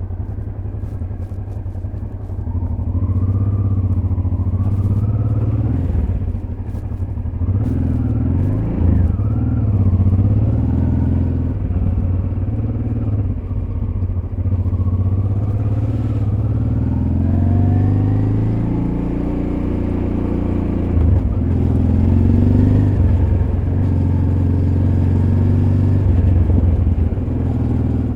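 Honda Transalp XL600V's V-twin engine running on a dirt road, its pitch rising and falling again and again as the throttle opens and closes. Scattered short clicks and rattles sound over it.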